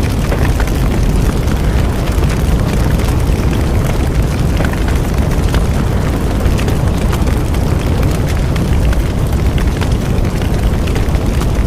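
Bonfire burning: a steady low roar of flames with frequent small crackles and pops from the burning wood.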